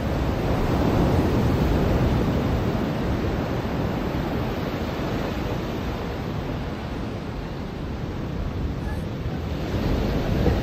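Ocean surf washing onto a beach: a steady rush that swells about a second in, eases off, and builds again near the end.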